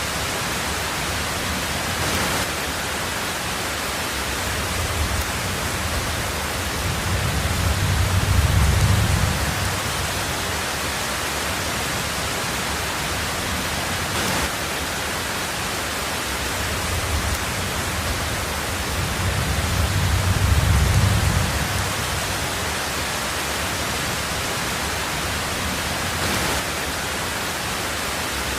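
Heavy rain drumming steadily on a tin roof, an even hiss, with two low rumbles of thunder swelling and fading, one a third of the way in and one about two-thirds in.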